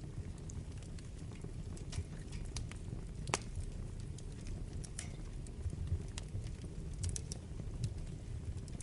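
Wood fire burning in a fireplace: a low, steady rumble of flames with irregular crackles and pops from the burning wood, the sharpest pop about a third of the way in.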